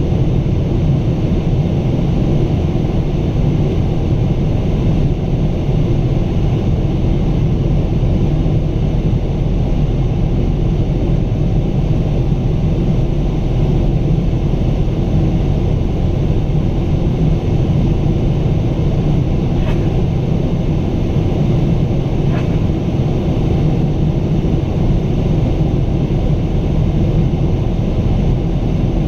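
Pratt & Whitney PW4000 engines of a Boeing 777-200 heard from inside the cabin during the climb: a steady, loud low drone with rushing air noise. Two faint ticks come about twenty and twenty-two seconds in.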